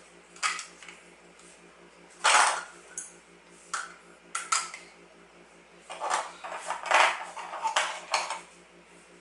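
Small hard toy pieces clattering and knocking together in irregular handfuls, as a child handles and assembles toy parts.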